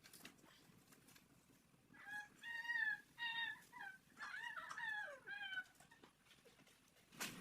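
Domestic fowl calling: a run of about half a dozen short, pitched calls over a few seconds, starting about two seconds in.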